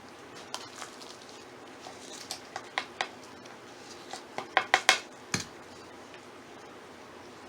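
Potting containers and tools knocking together as more potting soil is fetched: a scattered series of sharp clacks, with a quick run of the loudest about four and a half to five seconds in, then one duller thump.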